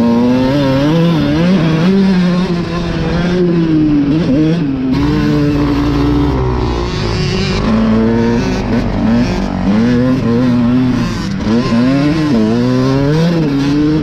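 Motocross dirt bike engine on the track, its pitch rising and falling again and again as it revs up, shifts and backs off through turns, with rushing wind noise.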